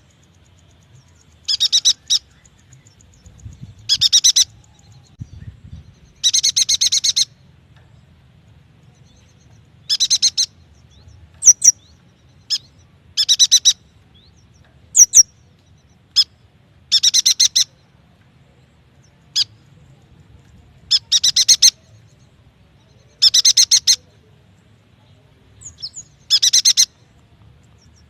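Yuhina calling: short bursts of rapid chattering notes, each under a second, repeated every two to four seconds, with single sharp high chirps in between.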